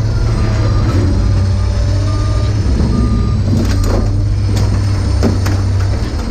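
A heavy truck's engine running loud, with its reversing alarm beeping twice and a few sharp metallic clanks in the second half.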